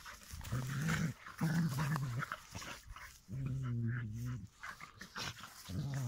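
Dogs play-fighting, growling: about three low growls of roughly a second each, with a fourth starting near the end, and scattered short sharp sounds between them.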